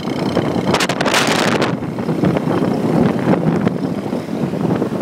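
Street traffic of motorbikes heard from a moving motorbike: engines running under steady wind rush on the microphone, with a louder gust of noise about a second in.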